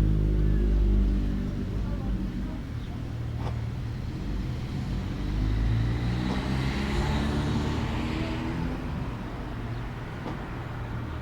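A vehicle engine running, its pitch stepping up and down, with a swell of hiss about halfway through.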